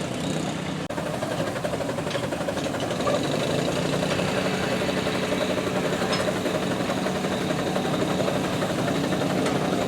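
Garden tractor engine running steadily at a pull.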